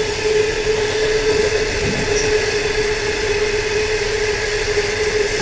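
Long freight train of ore hopper wagons rolling past: a steady rumble of wheels on rail with a constant droning tone over it.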